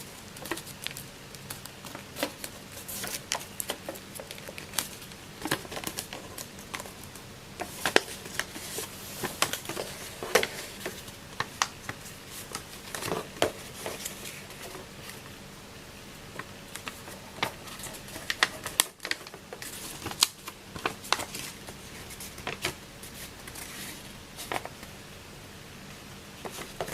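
A sheet of paper being handled and folded: crisp crinkles and sharp creasing clicks at irregular intervals over a faint steady hum.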